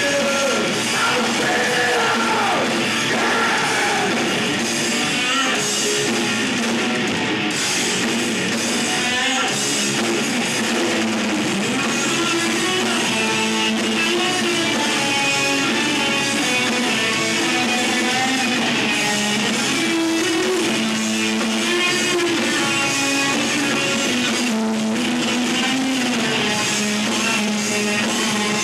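A rock band playing live, electric guitar and drum kit, with some singing.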